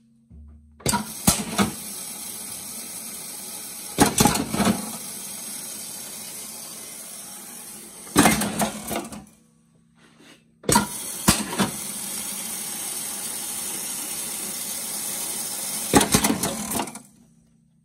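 Riveting machine setting rivets with washers: several sharp clacks of its strokes come a few seconds apart over a steady hiss. The hiss cuts out briefly around the middle.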